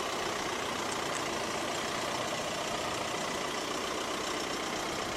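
A steady, unchanging mechanical hum like an engine idling.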